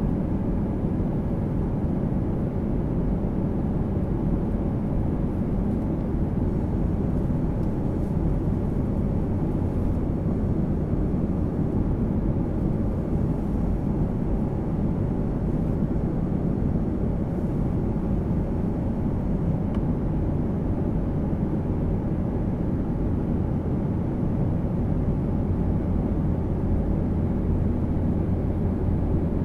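Steady roar of a jet airliner in flight, heard from inside the passenger cabin: engine and airflow noise that sits mostly low, with a low hum growing a little stronger in the last third.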